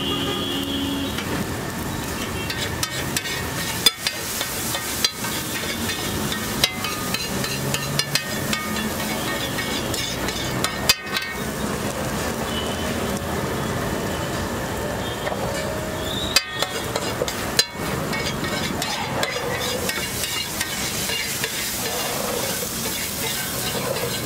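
Egg gravy sizzling on a large flat iron tawa, a steady frying hiss. Now and then a metal spatula strikes the griddle with a sharp clack, about six times.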